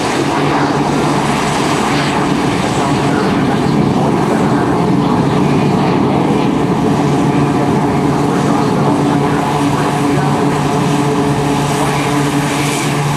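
Airplane engine drone, steady and loud, with a constant low hum and no change in pitch.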